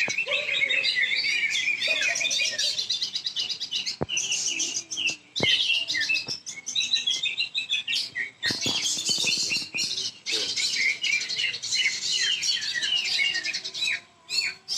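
Caged cucak ijo (greater green leafbird) singing in a bird contest, a dense run of quick overlapping chirps and whistled notes, with two short sharp clicks about four and five and a half seconds in.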